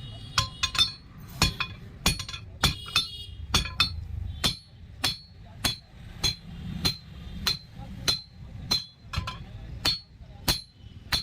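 Blacksmith's hammer striking a tempered steel rod on an anvil in a steady run of ringing metal blows, about one every half second to second. Quick doubled strikes come in the first few seconds, then a regular beat.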